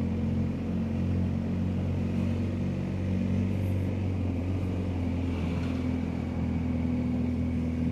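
BMW R1250GS Adventure's flat-twin boxer engine running steadily under way, a low even hum with road noise.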